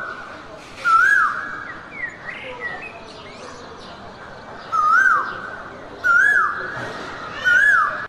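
A bird repeating a short call that rises then drops in pitch, four times, over softer chirps and the steady hiss of jungle ambience.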